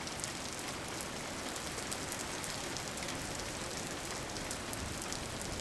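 Steady rain falling and pattering on a surface, with fine drop crackles.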